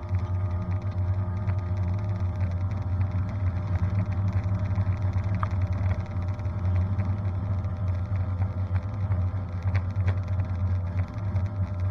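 Supercharged 383 V8 in a G-body Chevrolet Malibu drag car idling steadily with a deep low note while the car creeps forward.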